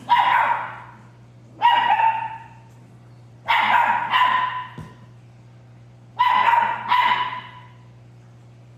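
Pit bull puppy barking: about six high barks, a second or two apart, some in quick pairs. A steady low hum runs underneath.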